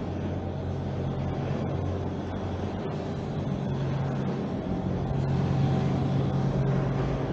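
Motorcycle engine running under way, heard from a camera mounted on the bike, with road and traffic noise; the engine note grows a little louder past the middle.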